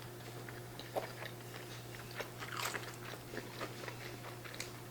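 Close-up sound of chicken nuggets being bitten and chewed: soft, irregular crunches and wet mouth clicks, over a low steady hum.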